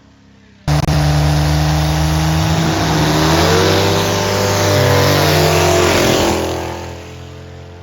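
Loud motor-vehicle engine running, cutting in suddenly a bit under a second in; its pitch dips and climbs again in the middle, and it fades out near the end.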